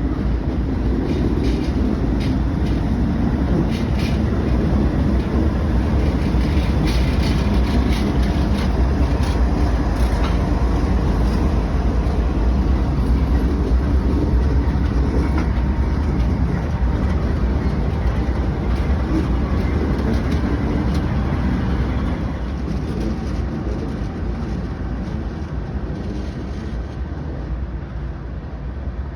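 Diesel locomotives running and moving on the track: a deep, steady engine rumble with scattered clicks through the first half, getting quieter about three quarters of the way through.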